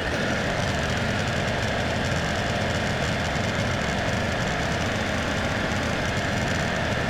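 LS XR3140H tractor's diesel engine running steadily, just after a new EGR valve was fitted.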